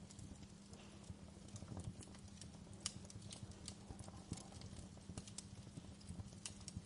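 Wood fire crackling in a fireplace: irregular sharp pops and snaps over a steady low rumble, with the loudest pop about three seconds in.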